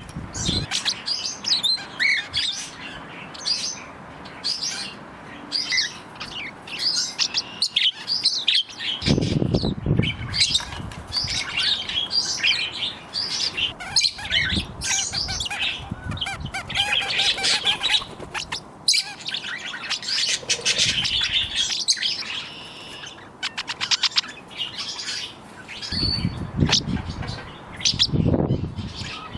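Mixed flock of pet budgies, cockatiels and small parakeets chirping and chattering without a break. Wind gusts rumble on the microphone about nine seconds in and again near the end.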